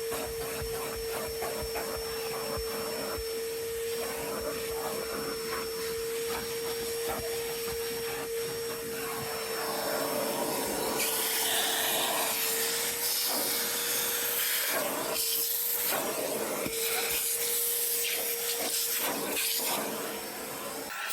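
Vacuum cleaner running with a steady whine while its nozzle scrapes and rattles over surfaces. About halfway through, the rush of air through the nozzle gets louder, with brief dips as the nozzle moves.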